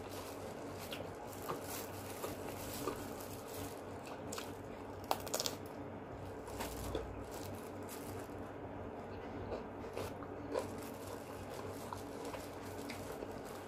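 Close-up eating: scattered small crunches and mouth clicks of chewing rice, fried chicken and cucumber, with light crinkling of a plastic food glove, over a faint steady hum.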